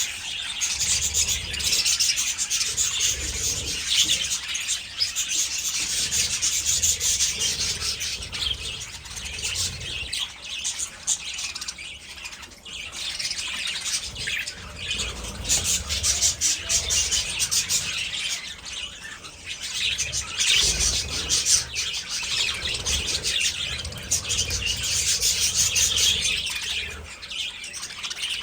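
A flock of budgerigars chattering and chirping, a dense, continuous high chatter of many birds at once.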